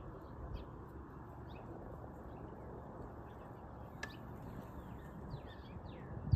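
Birds chirping: scattered short, high calls, with a few quick falling notes in the last couple of seconds, over a steady low background noise. A low thump comes right at the end.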